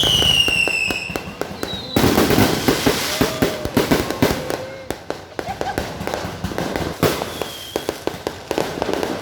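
Fireworks going off: a dense run of bangs and crackling. A loud whistle falls in pitch during the first second or so, and a short whistle comes about seven and a half seconds in.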